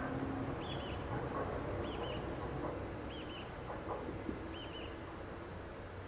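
A small wild bird repeating a short, high double-note call four times, about once every second and a quarter, over a faint low rumble that slowly fades.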